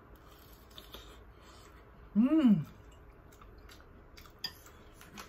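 A person chewing a mouthful of fried squid cutlet, close to the microphone, with faint scattered mouth clicks and a short rising-and-falling "mmm" of enjoyment about two seconds in.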